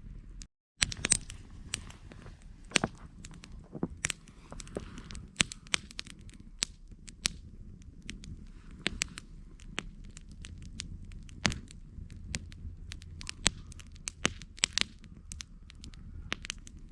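Wood campfire crackling: irregular sharp pops and snaps from the burning wood over a steady low rumble of the flames. The sound cuts out for a moment about half a second in.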